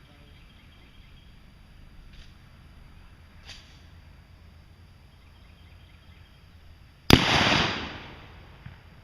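A single gunshot about seven seconds in, its report trailing off over about a second. A few faint ticks come before it.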